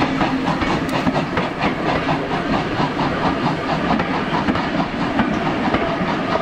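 Steam-hauled passenger coaches rolling past close by as the train pulls away, their wheels clattering in a steady, quick rhythm of clicks over a rumble.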